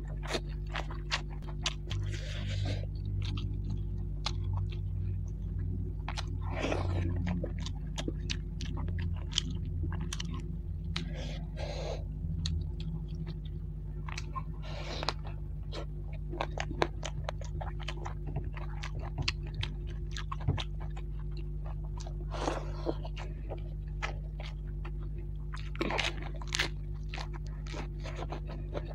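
Close-miked eating of rice and fried fish by hand: wet chewing and lip-smacking with crunches and sharp clicks, over a steady low hum.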